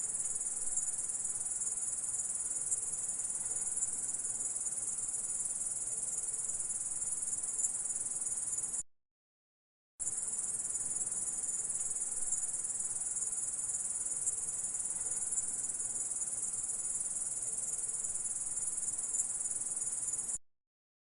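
Grasshopper stridulating: a steady, high-pitched buzzing trill. It cuts off about nine seconds in, stops for about a second, then starts again and runs until shortly before the end.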